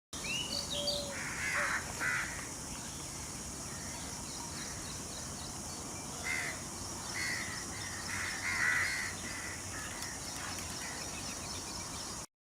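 Peafowl calling: a series of short, harsh calls, loudest about a second or two in and again between six and nine seconds in. Faint chirps of other birds and a steady high hiss sit beneath them.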